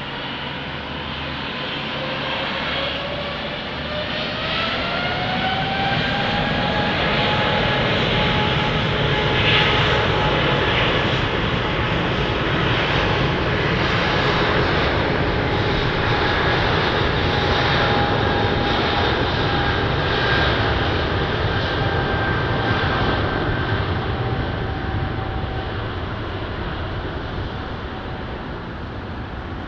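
Jet airliner engines spooling up: a whine rises in pitch over the first several seconds, then holds steady over a loud roar that eases off near the end.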